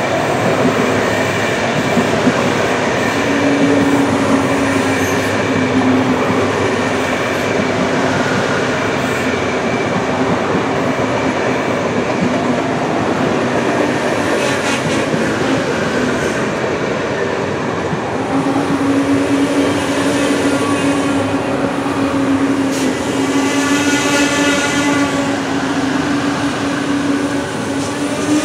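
VR Sm3 Pendolino electric tilting train passing close by: a steady rumble of wheels on rail, with a low hum that fades out and comes back as the carriages go by.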